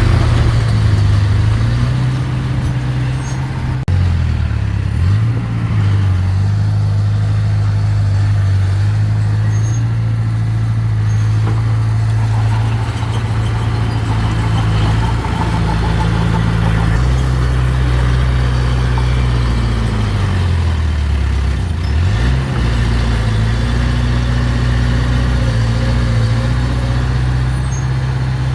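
Diesel engine of a mini bulldozer running steadily. Its pitch sags twice, a few seconds in and again about two-thirds of the way through, then picks back up, as the engine lugs under load.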